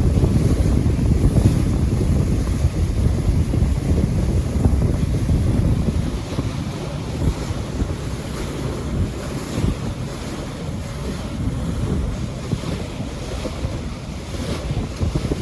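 Wind buffeting the microphone on a moving boat, a loud, uneven low rumble, with the rush of water against the hull underneath.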